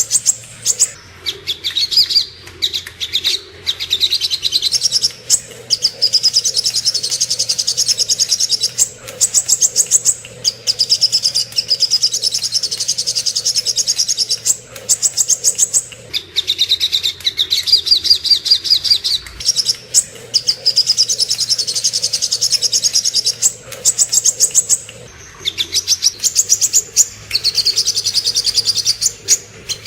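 Sogok ontong birdsong: long runs of rapid, high-pitched chipping notes, in phrases of a few seconds each with short breaks between them.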